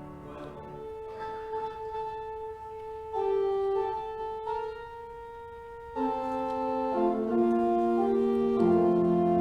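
Instrumental keyboard music between two hymns: sustained chords held and changing every second or so, quiet at first and growing louder about three and six seconds in.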